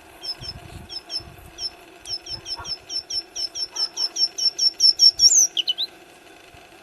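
A songbird singing a run of short, high chirps that come faster and grow louder over about five seconds, ending in a few quick notes.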